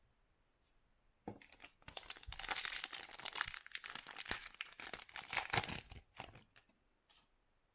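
A foil trading-card pack being torn open and its wrapper crinkled: a dense crackling rustle that starts just over a second in, lasts about five seconds and trails off into a few small clicks.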